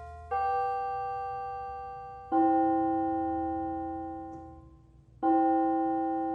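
Piano playing slow chords: three are struck a couple of seconds apart, each left to ring and fade away.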